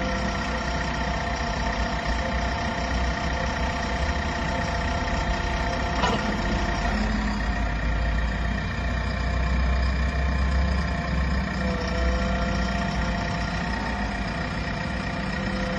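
The diesel engine of a 2020 JCB 4DX backhoe loader running steadily at around idle, its pitch shifting slightly a few times. A single sharp click comes about six seconds in.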